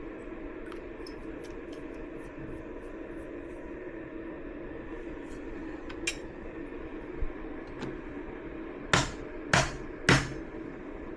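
Hand espresso gear being handled: light clicks and ticks, then three sharp knocks about half a second apart near the end, over a steady room hum.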